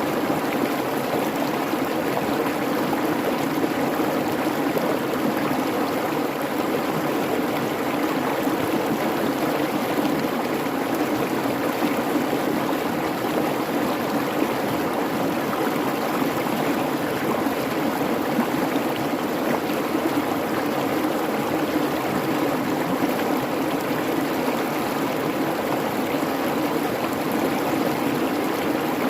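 A creek babbling steadily over rocks, an even rushing of running water with no breaks.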